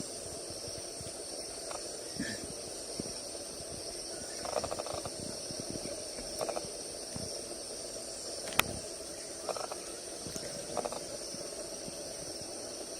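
Steady high-pitched chorus of insects, with a few short pulsed animal calls now and then and one sharp click about two-thirds of the way through.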